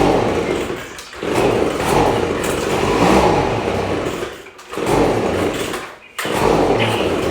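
Gas leaf blower being pull-started on a cold start, its engine turning over in four bursts of about one to three seconds without staying running.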